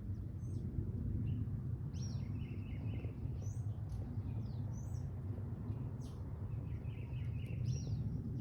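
Small birds chirping in short, scattered calls over a low, steady background rumble.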